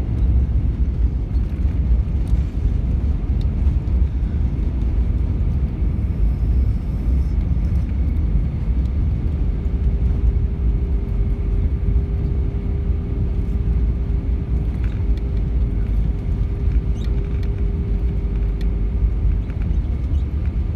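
Cabin noise aboard an Airbus A319-132: a steady low rumble from its IAE V2500 engines and airframe. A faint steady hum joins about halfway through.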